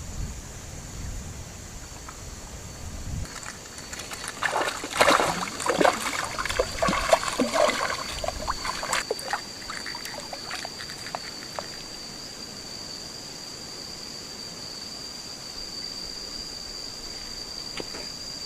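Water splashing and trickling for several seconds, loudest near the middle, over a steady high-pitched drone of insects.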